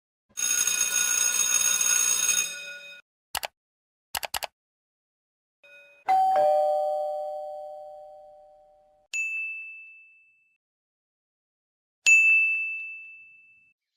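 A string of separate editing sound effects: a shimmering metallic ring, a few quick clicks, then a two-note ding-dong chime that fades slowly, followed by two high single dings.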